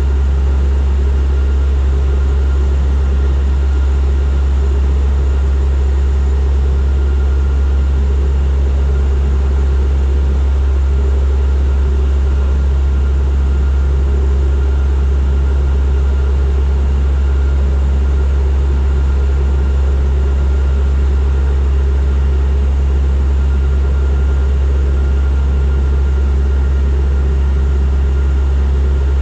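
Turboprop airliner's engines and propellers running with a steady, loud low drone, with a faint steady whine higher up and no change in pitch.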